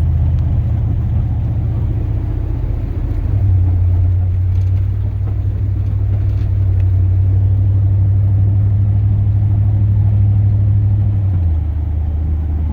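Chevrolet Silverado's 8.1-litre big-block gas V8 running under way, heard from inside the cab as a steady low drone. Its pitch rises about three seconds in as it pulls harder and drops again a little after eleven seconds.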